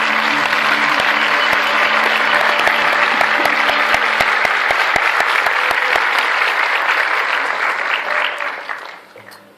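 Audience applauding at the end of a musical passage, a dense even clapping that dies away near the end.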